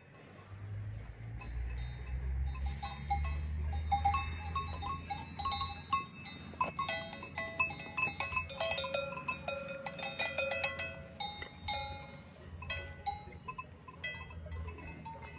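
Cowbells on cattle clanking irregularly, several bells ringing at different pitches, busiest in the middle, over a low rumble.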